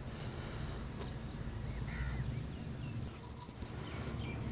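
Birds calling in the open: a short high note repeats about twice a second, louder calls come at the start and about two seconds in, and a flurry of quick chirps follows near the end, over a steady low rumble.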